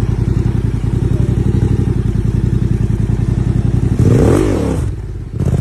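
Motorcycle engine idling with a steady, even beat, then briefly revved about four seconds in, with a short sharp noise near the end.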